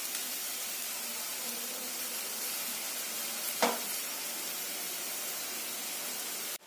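Beetroot sabzi sizzling steadily in a lidded kadhai as it steams, with one short clink about three and a half seconds in.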